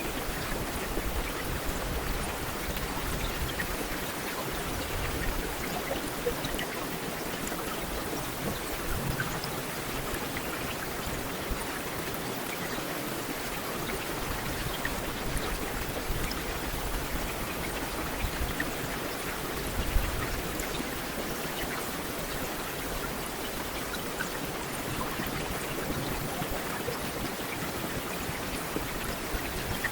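Heavy rain falling steadily, a dense even hiss with individual drops ticking through it. A single louder knock stands out about two-thirds of the way through.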